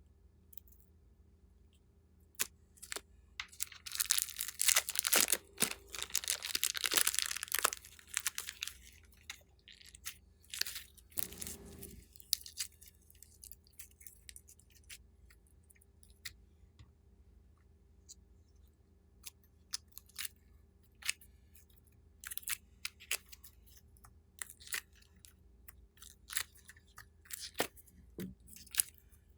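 Slime being squeezed, stretched and mixed by hand, making sticky crackling and popping sounds. A dense run of crackling comes about four seconds in and lasts about four seconds, followed by scattered single clicks and pops.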